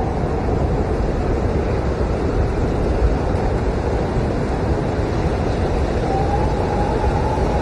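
Blizzard wind howling as a steady rushing noise, with a faint whistle coming in about six seconds in.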